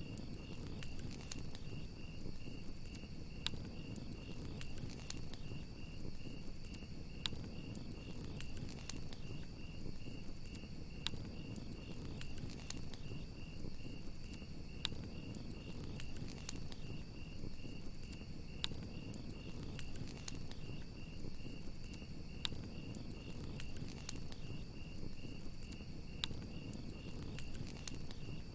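Crickets chirping in a steady, evenly pulsing trill over the low rumble of a campfire. Sharp crackles and pops from the burning wood come every second or so.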